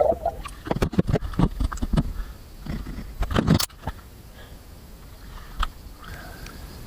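Irregular knocks, clicks and scrapes mixed with water noise for about the first three and a half seconds, typical of a camera being handled in pool water, then only faint steady noise.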